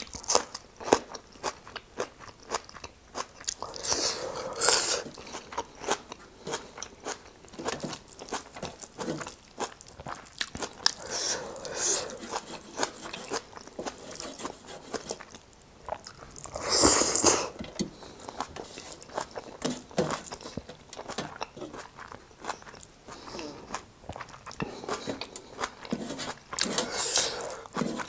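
Close-up eating sounds: a person crunching and chewing food, including bites of raw red onion, with many small clicks of chewing. Louder crunches come about four, twelve, seventeen and twenty-seven seconds in.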